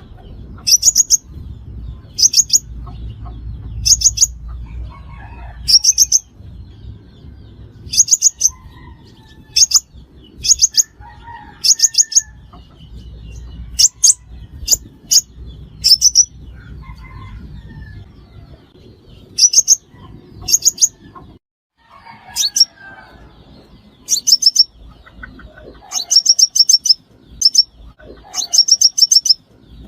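Five-colored sunbird song: short bursts of quick, high chirping notes repeating about every one to two seconds, coming faster and closer together near the end.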